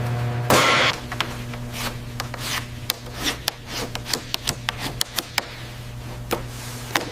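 Handling and tool sounds: a short scraping rub about half a second in, then scattered light clicks and taps over a steady low hum.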